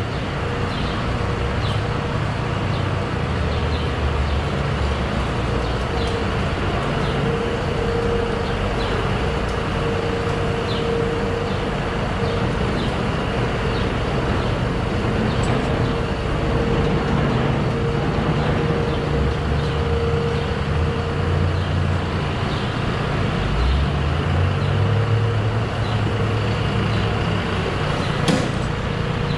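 Farm machinery engine running steadily, with a steady mid-pitched whine over the rumble.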